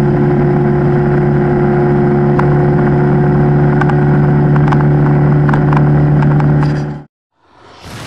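MerCruiser 3.0-litre four-cylinder sterndrive engine of a small runabout running at a steady, even pitch under way, with scattered short taps over it. It cuts off abruptly about seven seconds in, and a fainter, different sound starts just before the end.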